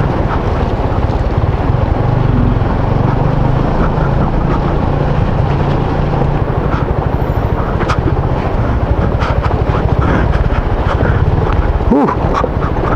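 Motorcycle engine running steadily while riding off-road, with wind buffeting the microphone and scattered light knocks. A brief up-and-down glide comes near the end.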